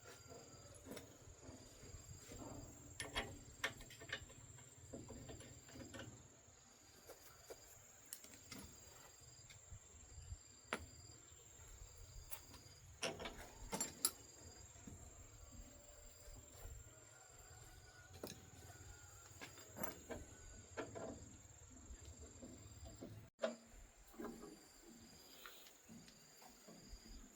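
Faint insects calling: a steady high trill with a short repeated chirp a little over a second apart, under scattered light clicks and knocks.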